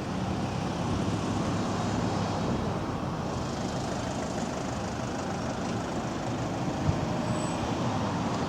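Steady outdoor background noise with a low rumble and hiss, with a small thump about seven seconds in.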